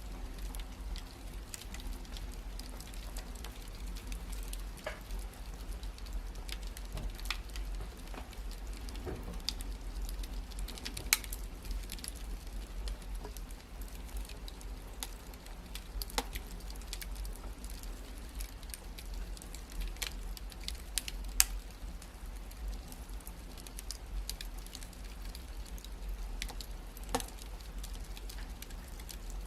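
Wood fire crackling steadily over a low rumble, with scattered sharp pops, two louder ones about eleven and twenty-one seconds in.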